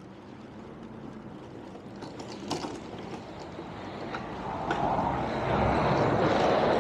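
Road traffic with a vehicle approaching, its tyre and engine noise swelling from about halfway in and loudest near the end, with a few faint clicks earlier on.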